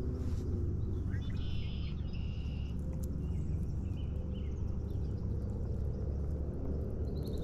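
Birds chirping in a few short high calls, mostly in the first half and again briefly near the end, over a steady low rumble.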